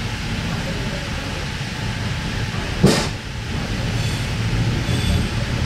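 Running noise of a K-set double-deck electric train carriage, heard from inside: a steady low rumble from the wheels on the track. A single sharp knock comes a little under three seconds in.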